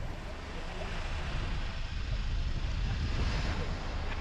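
A car driving on a road: a steady low rumble of tyres and engine under road hiss that swells and fades around the middle.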